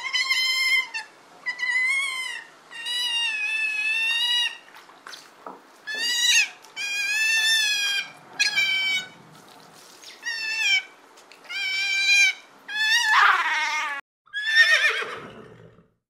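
Sea otter calling: a series of about ten high-pitched, wavering squeals, each half a second to a second and a half long. The last two calls, near the end, fall in pitch.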